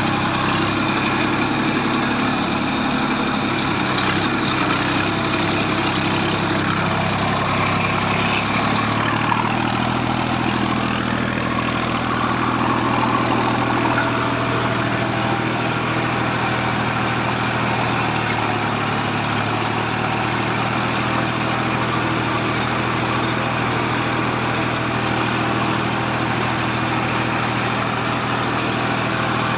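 Tractor engine running steadily while pulling a plough through the soil. Its note shifts about seven to nine seconds in, then holds steady.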